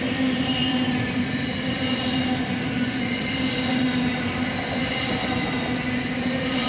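Container wagons of a long freight train rolling past close by: a steady, unbroken rumble of wheels on rail with a constant hum running under it.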